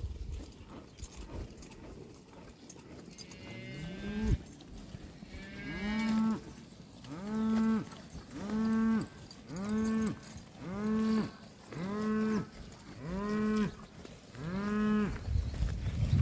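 Cattle mooing. A rising call about four seconds in, then about eight short calls in quick succession, roughly one a second, each rising and falling in pitch.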